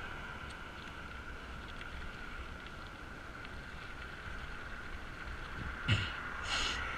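Wind rumble on a helmet-mounted camera microphone with a steady hum from the road while riding a bicycle. About six seconds in there is a sudden thump, followed by two short hissing bursts.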